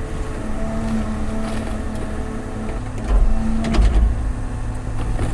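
Large excavator running: its diesel engine rumbling with a steady hydraulic whine, the low rumble growing louder for about a second roughly three seconds in.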